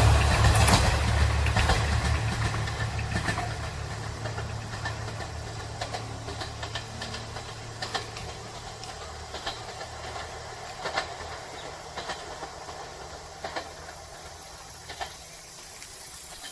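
A train moving away after passing a level crossing: its low engine rumble fades steadily over several seconds. Faint, irregular clicks continue as it recedes.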